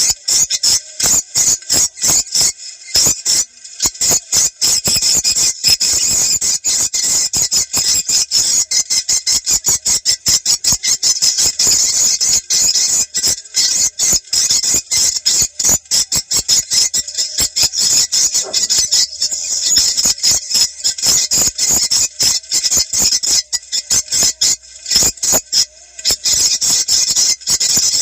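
Swiftlet lure call recording: a dense, fast, high-pitched chatter of many swiftlet chirps and twitters, played to draw swiftlets to a site.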